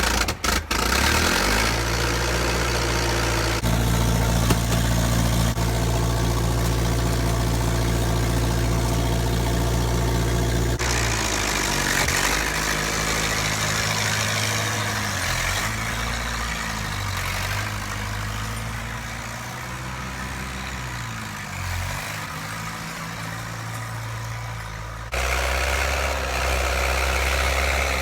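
Massey Ferguson 50 tractor engine catching just after the start, once the fuel has been turned on, then running steadily. From about the middle its speed rises and falls repeatedly, and near the end it suddenly settles back to a steady note.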